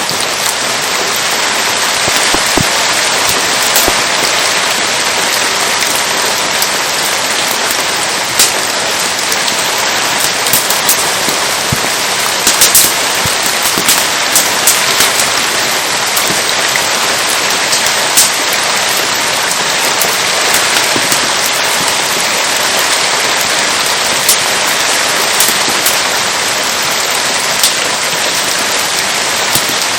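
Steady rain falling, a dense even hiss, with scattered sharp crackles and pops from a wood campfire.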